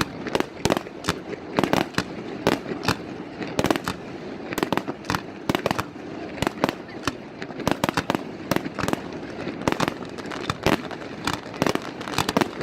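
Fireworks display going off: a dense, irregular run of sharp bangs and cracks, several a second, over a steady background rumble.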